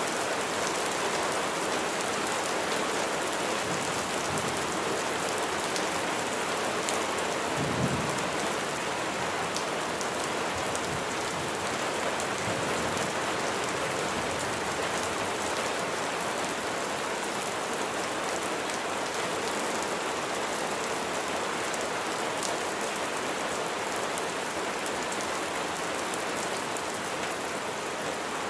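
Steady heavy rain with a dense, even hiss of drops on a surface. A brief low thump comes about eight seconds in.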